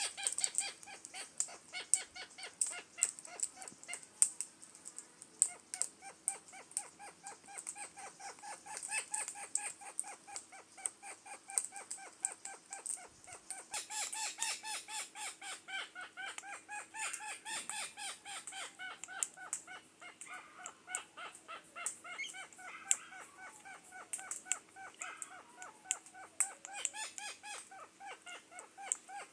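Australian king parrots calling: a steady run of short, harsh, pitched calls repeated several times a second, with several birds overlapping.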